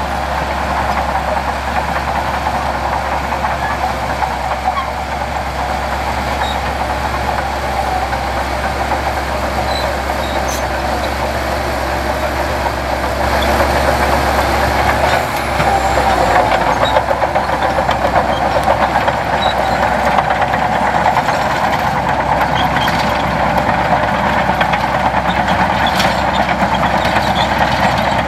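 Heavy earthmoving machinery's diesel engine running steadily, growing a little louder about halfway through.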